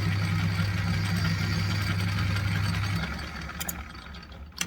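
Manual metal lathe running with a steady motor hum, then switched off about three seconds in and spinning down. A sharp click near the end.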